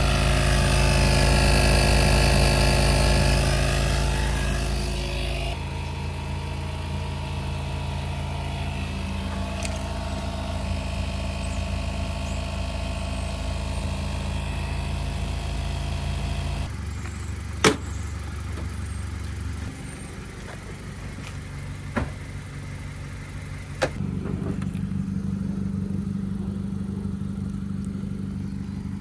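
A car engine running while driving, with road noise. It is loudest in the first few seconds, then settles to a steady hum, changing abruptly a few times. A few sharp clicks come near the end.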